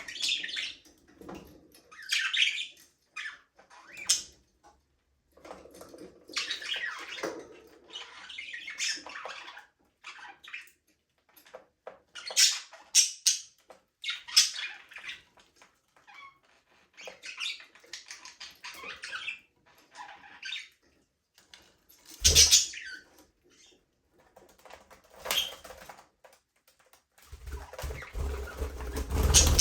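Budgerigars chirping and chattering in short, repeated high calls. A sharp knock comes about two-thirds through, and a louder rustling thump near the end.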